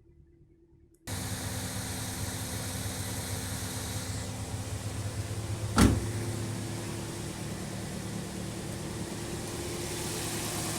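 Toyota MR-S's 1.8-litre four-cylinder engine idling steadily, coming in suddenly about a second in. One sharp knock about six seconds in is the loudest sound.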